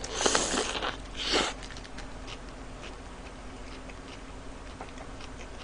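A bite into a jalapeño Whopper, with two short noisy crunches in the first second and a half, then faint chewing with the mouth closed.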